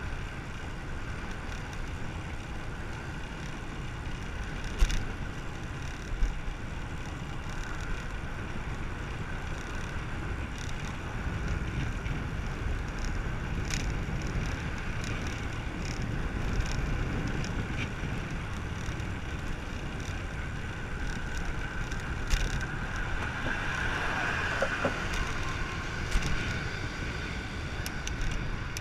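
Wind rushing over the microphone of a bicycle being ridden along the road, with a faint steady whine and a few sharp clicks scattered through it.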